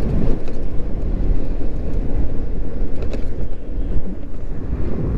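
Steady wind and road rumble from riding an electric moped in traffic, with the sound of nearby cars.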